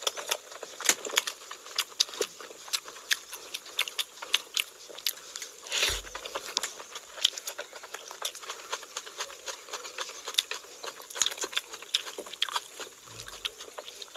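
Close-miked eating sounds: wet chewing, lip smacks and mouth clicks from eating curry and rice by hand, coming as many quick irregular clicks. A soft low thump about six seconds in.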